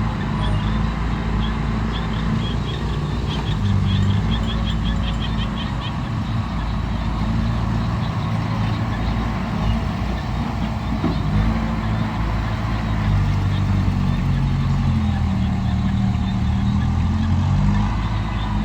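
Heavy diesel engine of the working machinery running steadily, its pitch shifting a little as the load changes. Around the third to sixth second there is a quick run of high clicks.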